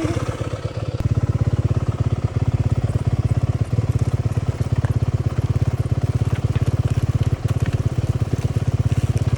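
Dirt bike engine running steadily with a fast, even pulse.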